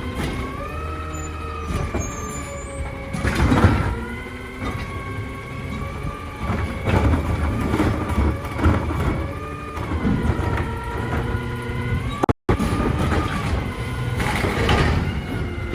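Heil Durapack Rapid Rail automated side-loader garbage truck working: the engine rumbles while the hydraulics whine, the pitch rising and falling as it revs, with several loud bangs. The sound cuts out for an instant about twelve seconds in.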